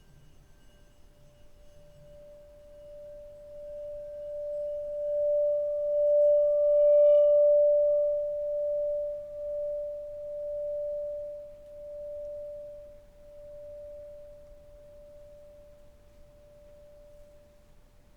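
A singing bowl sounding one pure, steady tone that swells over several seconds, then rings on with a slow wavering pulse as it fades. A fainter, lower ringing tone dies away in the first few seconds.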